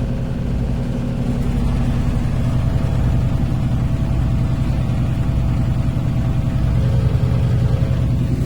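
LG WT16SSB washing machine running on test after its water pump was replaced: a steady low motor hum that swells slightly toward the end.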